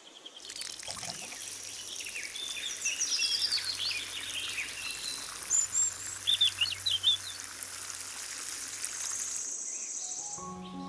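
Small birds chirping in quick short calls over a steady rush of running water.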